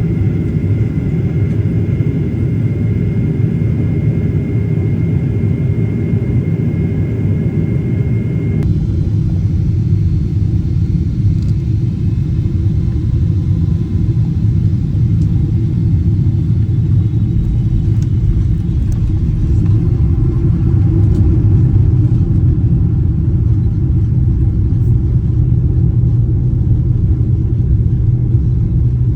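Boeing 777 jetliner's engines and airflow making a steady low rumble, with a faint high whine that cuts off abruptly about nine seconds in; the rumble swells slightly in the second half.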